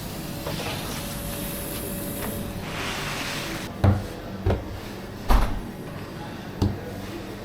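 Kitchen work sounds over a steady low hum: soft scraping and shuffling, then four sharp knocks in the second half, the third the loudest.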